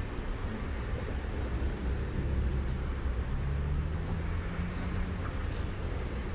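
Steady low rumble of outdoor street ambience, with a vehicle engine passing between about three and five seconds in, and a few faint high chirps.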